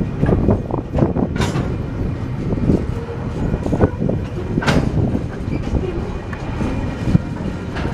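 Freight train rolling past: a continuous heavy rumble of steel wheels on the rails, with a few sharp clanks from the passing wagons.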